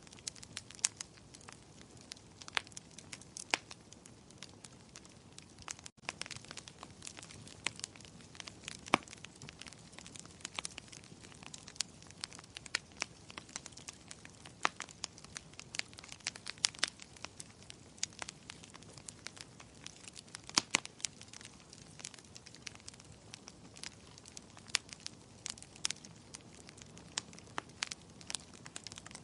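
Fireplace fire crackling: irregular sharp pops and snaps over a soft, steady hiss of burning, with a split-second dropout about six seconds in.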